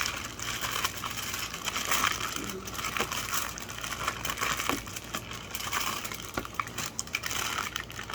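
Aluminium foil being crinkled and folded by hand, a steady crackling with many small sharp crackles.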